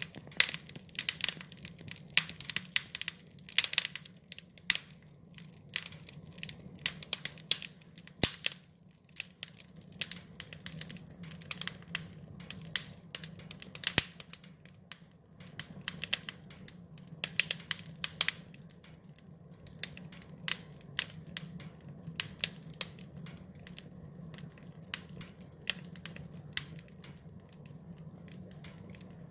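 Wood fire crackling: irregular sharp pops and snaps, clustered several a second at times, over a steady low hum.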